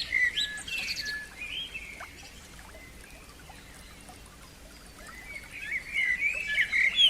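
A songbird singing in two bouts of varied, warbled and whistled phrases, one at the start and another from about five seconds in, with a quieter gap between. A faint steady hiss runs underneath.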